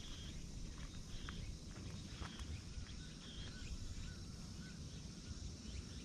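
Faint outdoor ambience: a low steady rumble with a distant bird giving short chirps about once a second, and a few softer higher calls in the middle.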